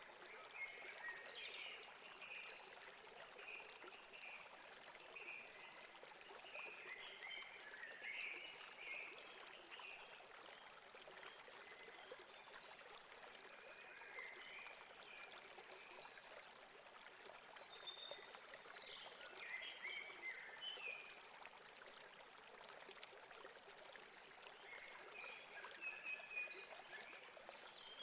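Faint, steady flow of a stream over rocks, with small birds chirping in scattered bursts of short, high, quick notes.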